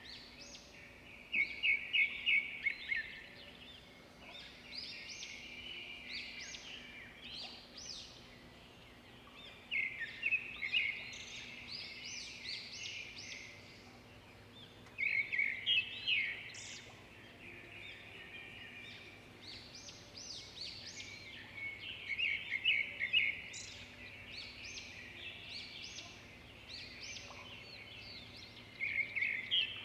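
Zebra finches calling almost without pause, with short nasal beeps and louder runs of rapid calls every five to seven seconds.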